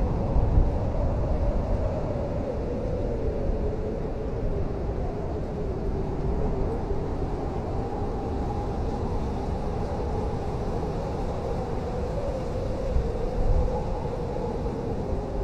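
Blizzard wind blowing in a steady low rush, with a wavering, drifting howl over it and stronger gusts about half a second in and again near the end.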